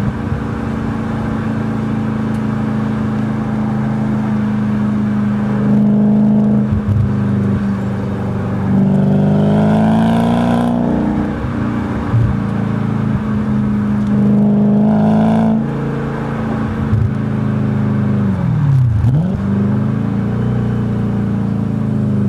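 Audi B7 S4's 4.2-litre V8 through a Stasis aftermarket exhaust, running steadily and rising in pitch under throttle three times, about six, nine and fourteen seconds in. Near the end the pitch drops sharply and climbs back.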